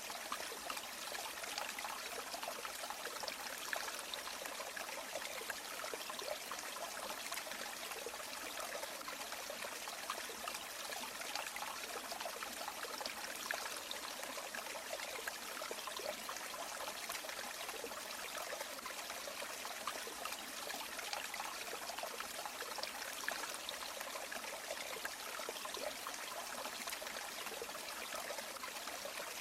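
Shallow river water running and trickling over stones, a steady splashing babble without breaks.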